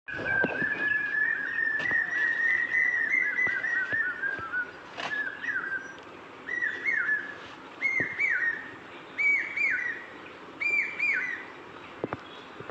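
Clear bird-like whistled calls. A quick warbling run of chirps comes first, then from about four seconds in a repeated hooked two-note phrase sounds roughly every second and a half. A few soft clicks come in between.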